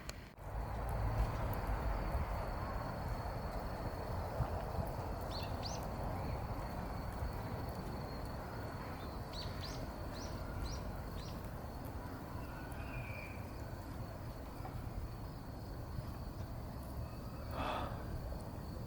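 Outdoor ambience: a steady background hiss with a thin, steady high-pitched tone, and a few quick bird chirps, once about five seconds in and again in a short run a few seconds later. A brief louder call comes near the end.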